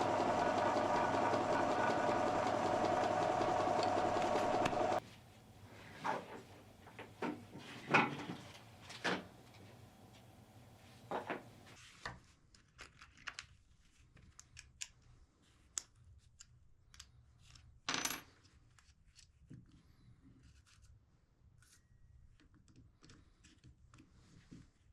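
A power tool's motor runs steadily and stops suddenly about five seconds in. Then come scattered light clicks and taps of small pieces being handled, with one louder knock later on.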